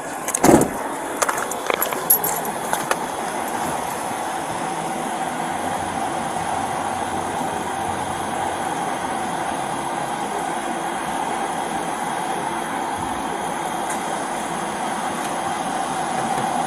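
Steady vehicle running noise with an even hum, broken by a loud knock about half a second in and a few clicks over the next couple of seconds.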